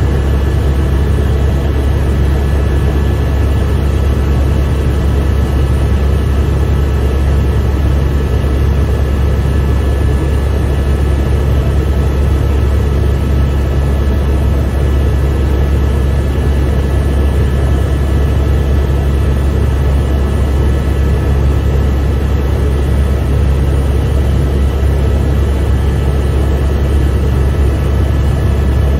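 Helicopter in flight heard from inside the cabin: a loud, steady deep drone of rotor and engine, with a constant high whine over it.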